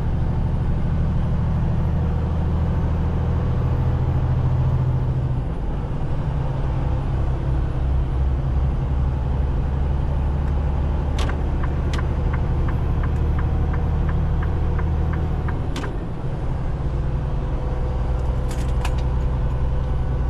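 Semi truck's diesel engine droning steadily, heard from inside the cab, with its note shifting about five and sixteen seconds in. Partway through, a regular ticking of about three a second runs for several seconds.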